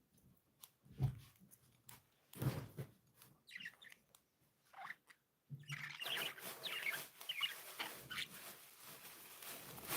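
Pet budgerigars chirping in short scattered calls, busier in the second half with a rustling haze under the chirps. Two low thumps about one and two and a half seconds in are the loudest sounds.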